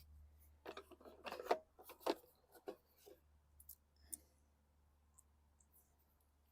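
Light clinks and rattles of sheet-metal parts being handled as the recoil starter is set back onto the mower engine, several short knocks in the first four seconds, then dying away.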